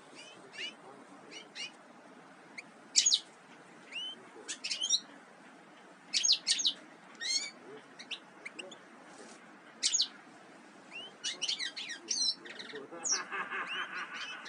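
Small songbirds chirping: many short, high calls, some sliding down in pitch, in scattered bursts. Near the end there is a brief rattling noise.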